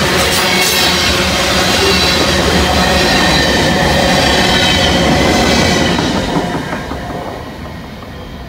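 Freight train of covered hoppers and gondolas rolling past close by: steel wheels clattering on the rails with steady high squeal tones. The last car goes by about six seconds in and the sound fades as the train moves away.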